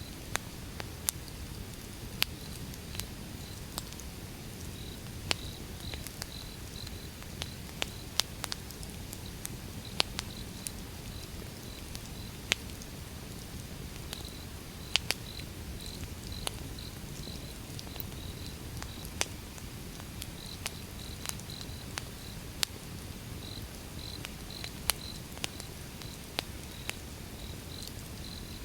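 Wood fire burning: a steady low rush of flames with sharp crackles and pops from the burning logs, irregular, about one a second. A faint high chirping in short pulses runs under it.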